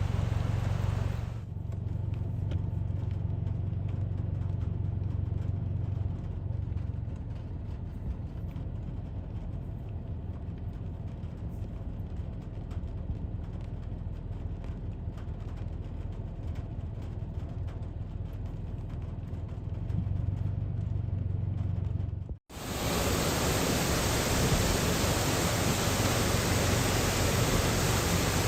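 A car's low, steady road and engine rumble with a hum. About 22 seconds in it cuts off abruptly and a loud, even rushing noise takes over, like floodwater or heavy rain.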